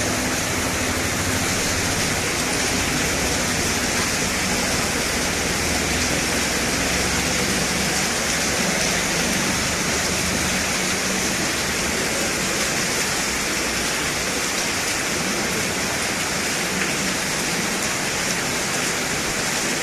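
Heavy rain pouring steadily, an even hiss of downpour with no letup.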